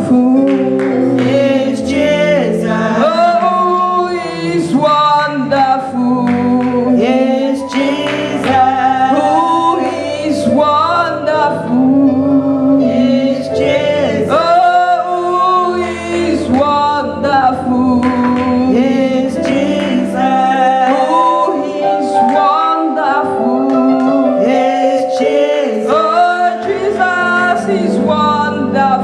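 A church choir singing a gospel worship song, with held notes over a steady low accompaniment.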